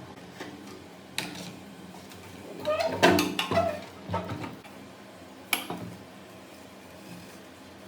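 Metal parts and tools knocking and clinking as they are handled and set down. There is a quick cluster of knocks with brief ringing about three seconds in, and a single sharp clank a couple of seconds later.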